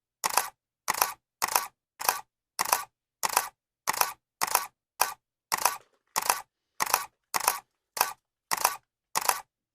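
Camera shutter clicking over and over at a steady pace, about one and a half clicks a second. Each click is a quick double snap, with silence between.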